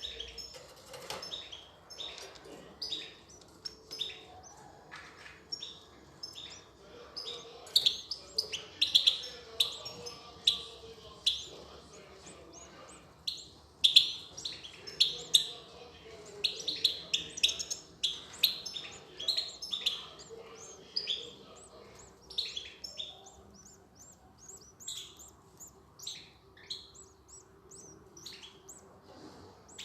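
European goldfinches chirping: a rapid, continuous run of short high calls, loudest in the middle stretch.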